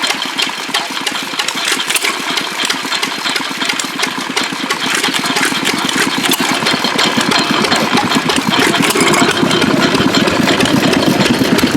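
1928 Stover 2 horsepower stationary engine running smoothly with a rapid, even beat, growing a little louder in the last few seconds.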